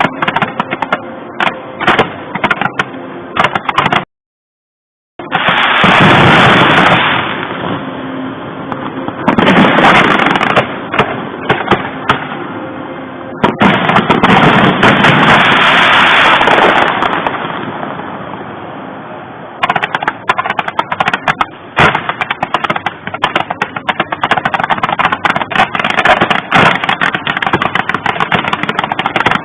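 Fireworks going off: long runs of rapid crackling and popping, like a machine gun, with several louder bursts between them. The sound cuts out completely for about a second near four seconds in.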